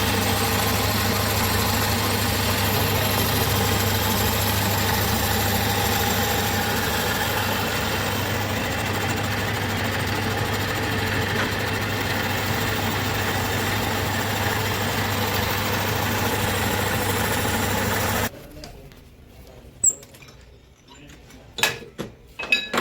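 Boring machine running steadily with a low hum, shutting off abruptly about eighteen seconds in, followed by a few light metal clinks.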